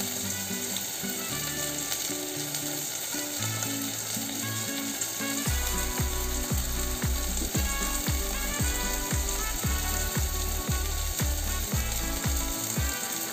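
Garlic, onion and tomato sizzling steadily as they sauté in hot oil in a stainless steel pot. Background music plays over it, and a steady beat comes in about halfway through.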